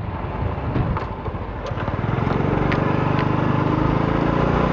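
Strong gusting wind rushing over the microphone on a moving motorcycle, with the engine running underneath. The engine note comes up and grows louder from about two seconds in.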